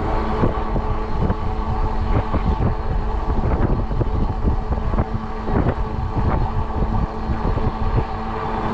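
Ecotric fat-tire e-bike's hub motor whining steadily under power, mixed with wind buffeting the microphone as it rides.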